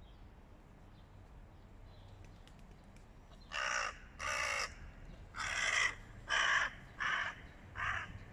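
Hooded crows cawing: a run of about six loud, harsh caws starting about three and a half seconds in, after a quiet stretch.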